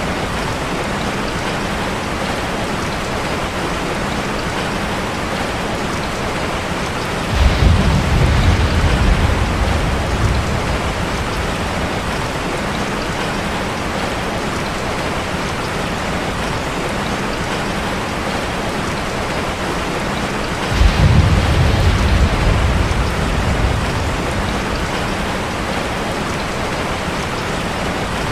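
Steady rain drumming on a metal roof, with two rolls of thunder: one about seven seconds in and another about twenty-one seconds in, each a deep rumble lasting a few seconds.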